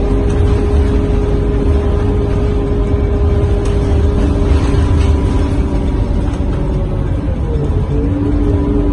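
Scania K230UB bus running along the road, heard from inside the cabin: a low rumble with steady engine and drivetrain tones. Near the end one tone dips and then settles at a new, lower steady note.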